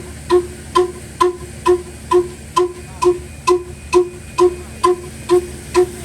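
Old diesel engine running a flour mill, its exhaust beating in a steady, even rhythm of about two ringing beats a second over a low hum.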